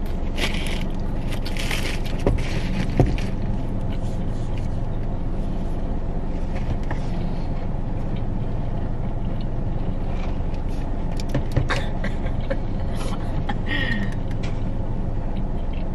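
Car engine idling, a steady low hum heard inside the cabin of the parked car. Over it come chewing and a few crackles and clicks as a bacon-and-egg burger is bitten into and eaten.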